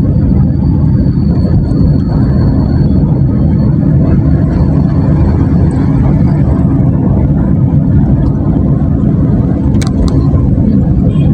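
Motorcycle on the move: steady engine and road rumble, with two sharp clicks about ten seconds in.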